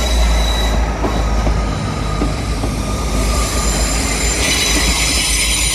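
Class 158 diesel multiple unit moving along the platform, its wheels squealing in steady high-pitched tones over a deep rumble.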